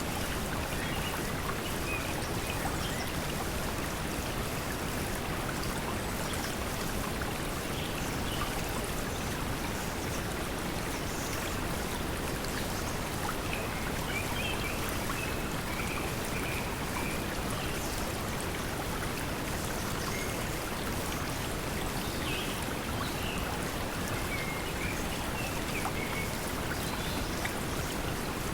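Steady pink noise blended with flowing stream water, with faint short chirps from a forest background scattered through it.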